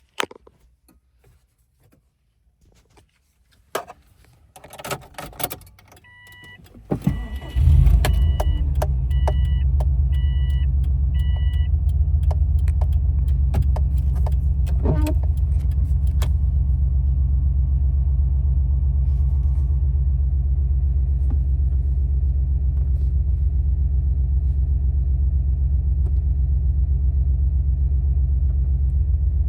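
Keys and clicks, then a warning chime beeping five times as the 2004 Subaru Impreza WRX STI's 2.5-litre turbocharged flat-four starts, about seven seconds in. The engine then idles steadily with a deep, low exhaust note through its aftermarket Borla exhaust and Tomei headers.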